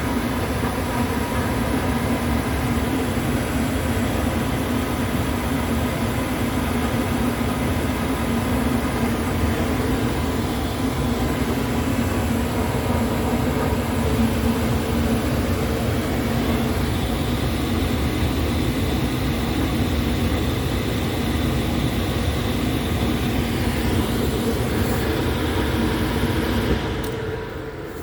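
Steady mechanical drone with a low steady hum running through it, which drops away near the end.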